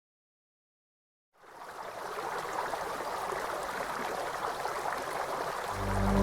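Silence, then the steady rush of a stream's running water fades in about a second and a half in. Near the end, music with sustained low notes comes in over the water.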